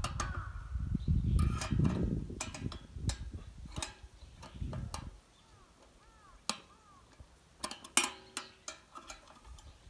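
Scattered sharp clicks and taps of hard objects, over a low rumble in the first few seconds, with a few short high chirps about six seconds in.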